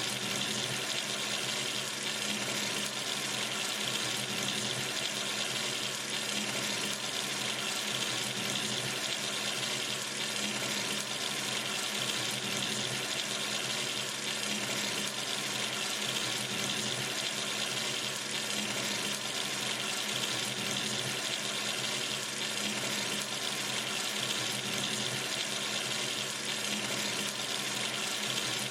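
Tap running steadily into a sink, an even rushing of water with a brightness high in pitch.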